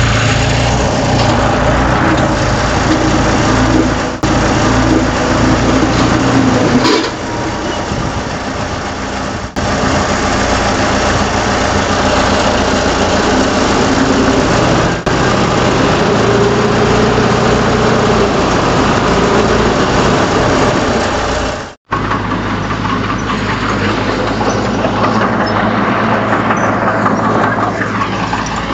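Diesel engine of a Komatsu D31 crawler bulldozer running and working, a steady heavy engine sound. The tone changes abruptly several times where shots are cut together, and after the last cut, a little past the two-thirds mark, it runs steadier and lower.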